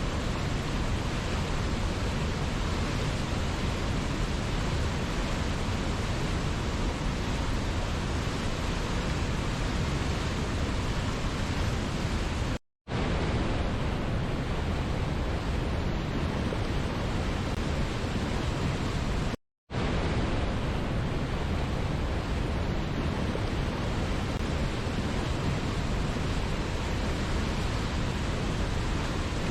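Waterfall rushing steadily as an even wash of falling-water noise. It cuts out to silence for a split second twice, a little before and a little after the middle.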